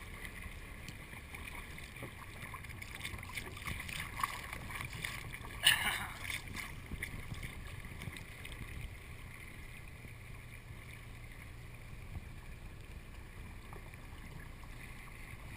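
Faint, steady water and wind noise around a small boat, heard through a waterproof camera housing, with a single brief knock a little before six seconds in.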